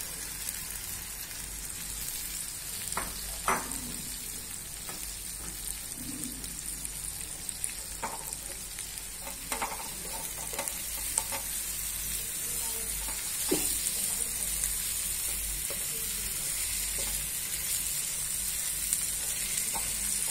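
Sprouted val beans sizzling in hot oil in a wide frying pan, the sizzle growing a little louder in the second half, while a wooden spatula stirs them with scattered scrapes and knocks against the pan.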